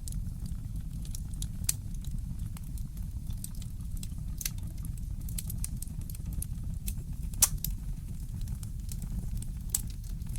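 Wood fire crackling, with irregular sharp pops and snaps over a low steady rumble; the loudest pop comes about halfway through.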